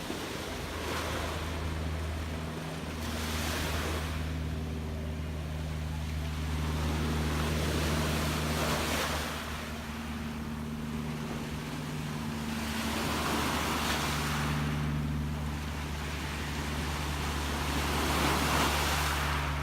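Gentle sea waves washing in and drawing back, swelling and fading every few seconds. A steady low drone, like a distant motor, runs underneath.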